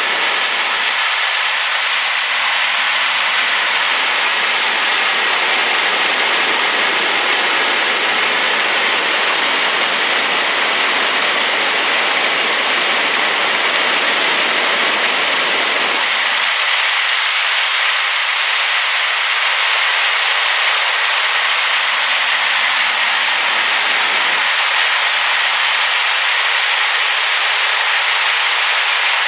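Waterfall swollen by rain, a steady, loud rush of falling water.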